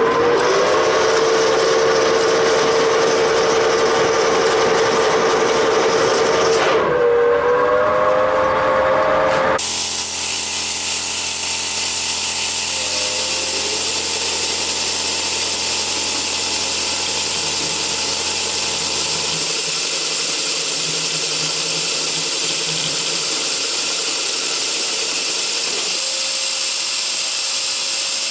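Milling machine drilling into a mild-steel block, its audio sped up in a time lapse: a steady whine over a loud hiss. The sound changes abruptly about ten seconds in to a thinner, steady hiss with fainter tones.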